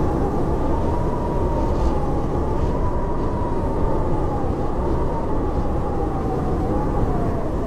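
Howling blizzard wind: a steady deep rumble with a thin whistle above it that wavers slowly in pitch, sinking gradually toward the end.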